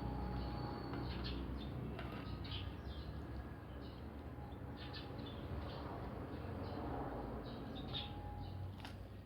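Close-miked chewing of fried food (french fries and fried siomai): scattered short crunches and mouth clicks over a steady low hum.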